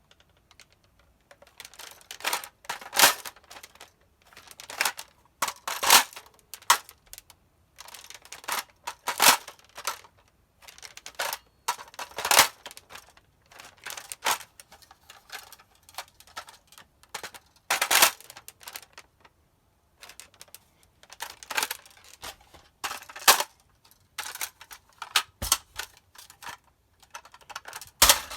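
Plastic clicks and clacks of a Nerf blaster being handled and reloaded with a flip magazine, in irregular clusters with short pauses and a few louder snaps every few seconds.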